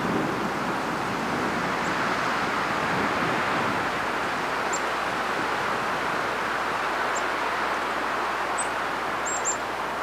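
Steady rushing outdoor noise, with a few short, very high, thin bird calls: single notes spaced a few seconds apart, then three in quick succession near the end.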